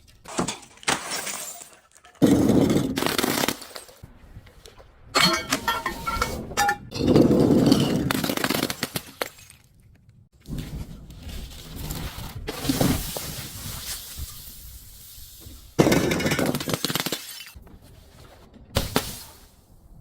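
Glass bottles breaking and being crushed, in about six separate bursts of crunching and shattering that start and stop abruptly. One burst has a ringing clink of glass in it.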